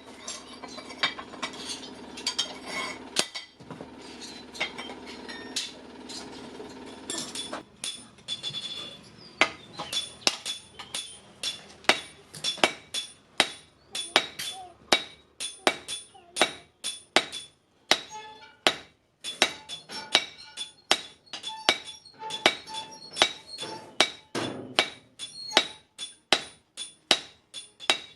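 Hand hammer striking steel from a truck leaf spring on an anvil, each blow ringing metallically. From about eight seconds in the blows settle into a steady rhythm of roughly two a second; before that the strikes are fewer and mixed into a denser clatter.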